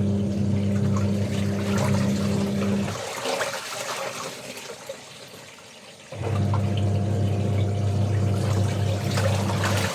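Washing machine washing: the motor hums and water sloshes for about three seconds, stops while the water keeps swishing, then starts again about six seconds in.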